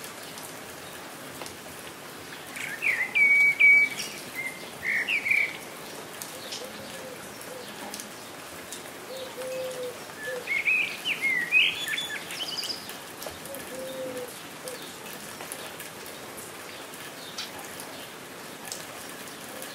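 Steady rain patter with songbirds chirping in two short bursts of song, about three seconds in and again about ten seconds in. A few soft, low calls come in between.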